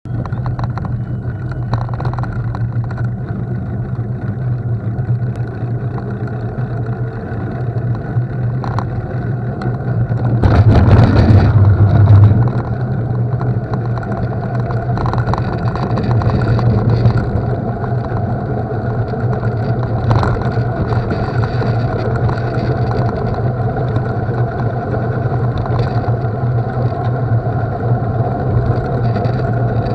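Steady moving-vehicle noise: a low hum under a rushing haze. It swells louder for about two seconds, about ten seconds in.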